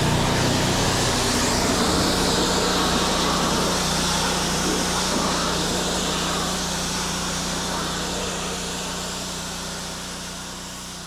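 Pressure washer running: a steady hum under the hiss of the high-pressure water spray, slowly fading out toward the end.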